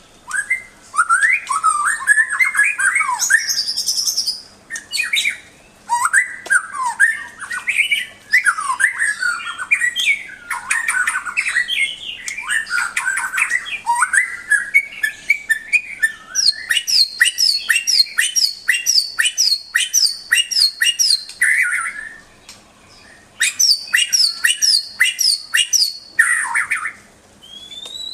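White-rumped shama (murai batu) singing a long, varied song of rich whistled phrases. In the second half it breaks into fast runs of repeated sharp chattering notes, with a short pause between them.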